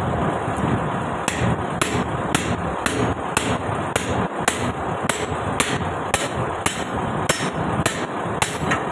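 Hammer blows on steel, evenly spaced at about two a second and starting about a second in, driving out a stubborn bolt that is hard to pull out. A truck engine runs steadily underneath.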